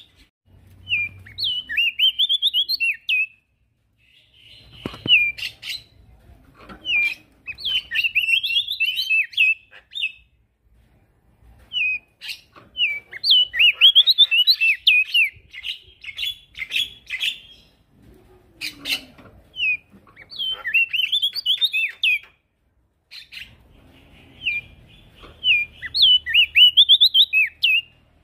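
Male prenjak daun songbird singing in repeated bursts of quick, high, up-and-down notes, each burst a second or three long with short pauses between, in full vigorous song.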